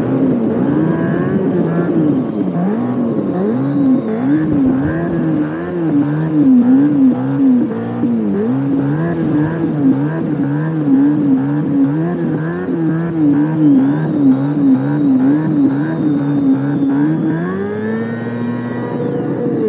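Simulated Ferrari engine sound played from a speaker on a Veteran Sherman Max electric unicycle, revving up and down in quick repeated blips, with one longer rise in pitch near the end.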